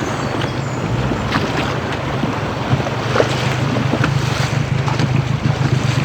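Boat motor running with a steady low hum under rushing water and wind buffeting the microphone, with short splashes now and then.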